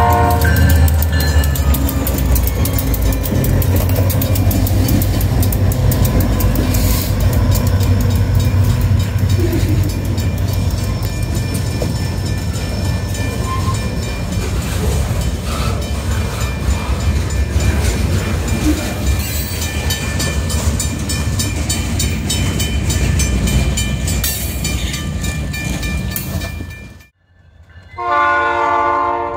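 Freight train passing close by. A locomotive air horn cuts off as it begins, then the low rumble of the train and the rhythmic clicking of freight car wheels over rail joints. After a sudden cut near the end, a locomotive air horn sounds a multi-note chord.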